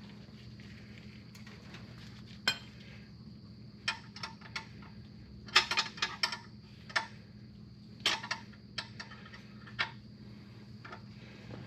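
Scattered light metallic clinks and knocks, about a dozen, some in quick clusters, as tools and parts are handled during the oil change. A steady low hum runs underneath.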